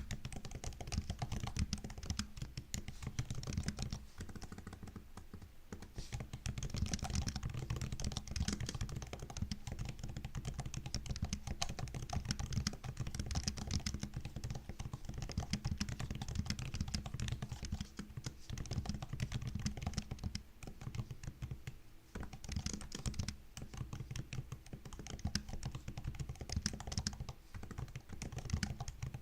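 Typing on a MacBook's built-in keyboard: a steady stream of quick, light key clicks, easing off briefly about four to six seconds in.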